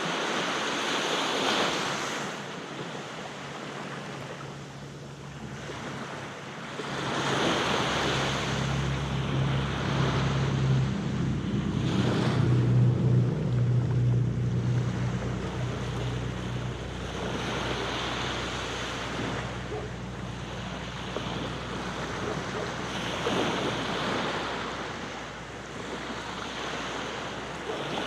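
Aegean Sea waves washing onto a beach, swelling and falling back about every five or six seconds. A low steady hum sits under the surf for several seconds in the middle.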